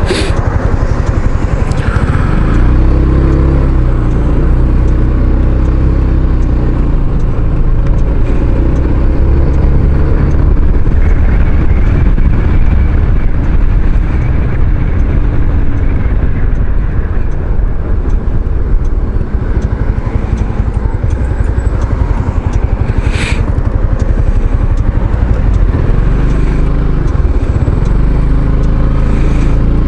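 Kymco Xciting 500 maxi-scooter running on the road, its engine pitch drifting up and down with speed, under a heavy low rumble of wind on the microphone. A brief sharp click about 23 seconds in.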